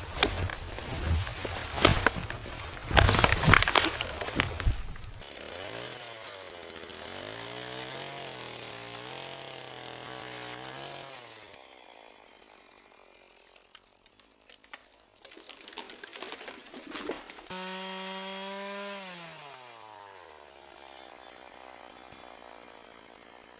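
Loud crunching with sharp knocks, then a small engine revving up and down. Near the end the engine gives a strong burst that falls in pitch as it winds down and fades away.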